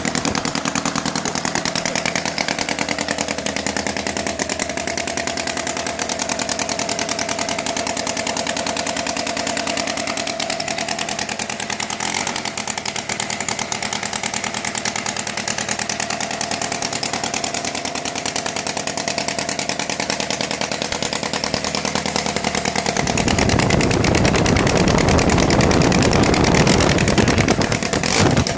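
Kolm 135cc boxer engine running steadily on its first run, growing louder and rougher for several seconds near the end.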